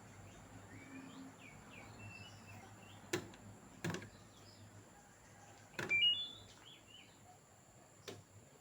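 Several sharp clicks, four in all, and a short three-step rising electronic beep about six seconds in, over faint bird chirps.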